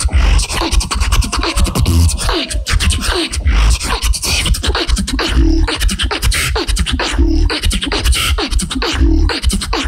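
Solo beatboxing: heavy bass kicks under sharp snare and hi-hat clicks in a steady, dense beat. About two seconds in there are gliding vocal tones that rise and fall in pitch.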